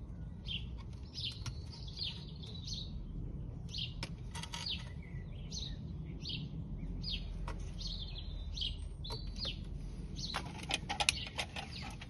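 Small birds chirping repeatedly in short, downward-sliding chirps over a steady low background rumble. A few sharp clicks, bunched about ten seconds in, come from handling the wires and screwdriver at the plastic socket box.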